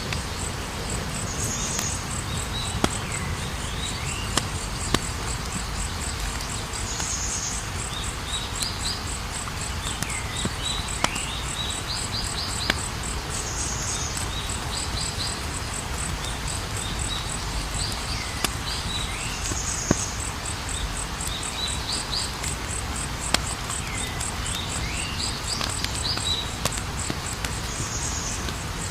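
Campfire burning with a steady low rush and scattered sharp crackles and pops from the wood. Crickets chirp steadily in a fast, even pulse, and a short higher call recurs every few seconds.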